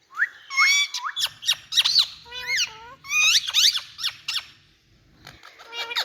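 Indian ringneck parakeet calling: a quick run of high, squeaky chirps that sweep up and down in pitch for about four seconds. After a short pause the calls start again near the end.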